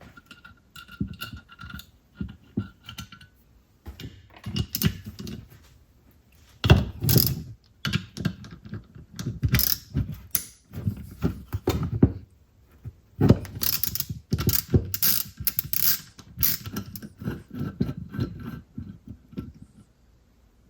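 Small metal parts and hand tools clicking, knocking and rattling as they are handled, in irregular clusters.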